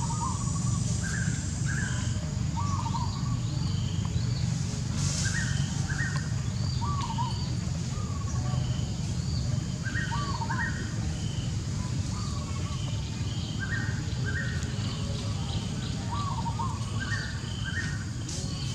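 Birdsong: a songbird repeating the same short, several-note phrase about every four seconds, over a steady low background rumble.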